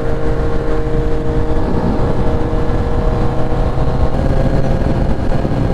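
Motorcycle engine running steadily while riding, over a dense low rush of wind and road noise; the engine note shifts slightly about four seconds in.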